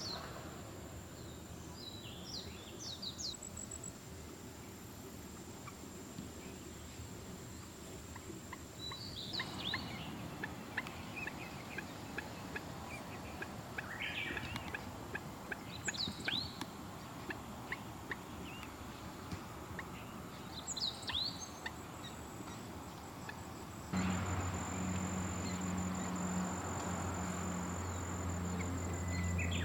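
Scattered short, high calls of common moorhens, over a faint steady high insect whine. A low steady hum comes in near the end.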